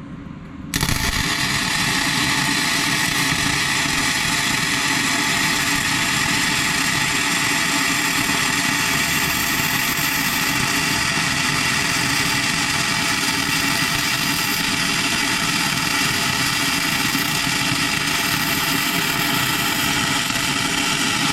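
A steady mechanical running noise with a constant hum and hiss, starting abruptly about a second in and held at one level for some twenty seconds before cutting off.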